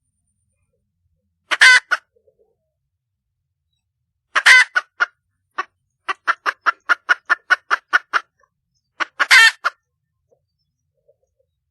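Red junglefowl hen calling for a rooster: three loud, short squawking calls, the second followed by a quick run of about a dozen clucks at roughly five a second.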